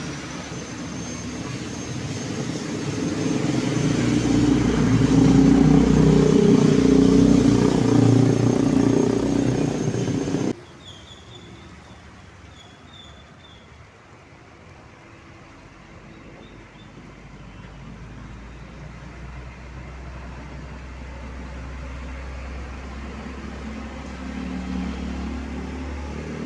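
A heavy road vehicle's diesel engine grows louder as it comes close and runs loud for several seconds. The sound cuts off abruptly about ten seconds in to quieter road noise, with another vehicle slowly growing louder toward the end.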